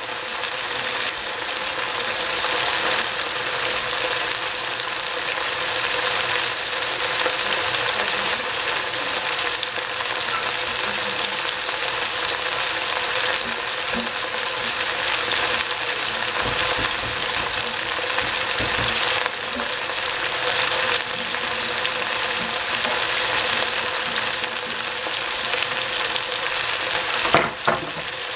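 Bok choy sizzling steadily in hot cooking oil in a stainless-steel pot over a high gas flame. A short knock near the end.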